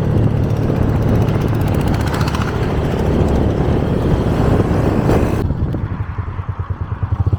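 Motorbike riding along with wind rushing over the microphone. About five seconds in, the wind noise drops away sharply, leaving the engine's low, pulsing note as the bike slows down.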